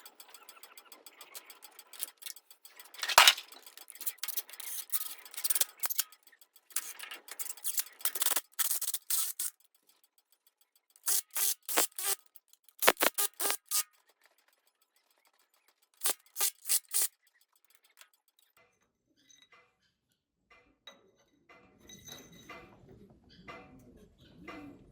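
Hand tools working on metal: a sharp knock about three seconds in, scraping and clatter, then several short bursts of rapid clicking, with near silence between the last bursts.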